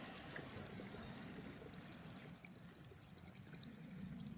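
Faint, steady trickling of a small creek.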